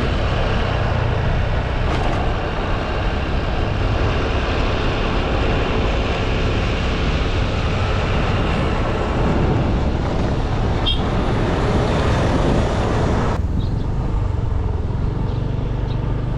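Steady running noise of a moving road vehicle: a low engine hum under a broad rush of road and wind noise. The higher hiss drops away about thirteen seconds in while the low hum carries on.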